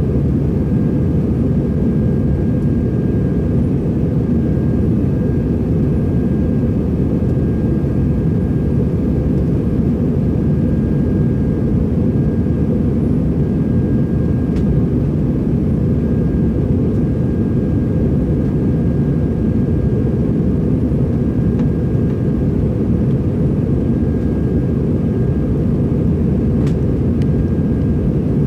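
Steady cabin noise of an Airbus A321-200 in flight: a loud, even low rumble of engines and airflow that does not change, with a faint thin steady tone above it.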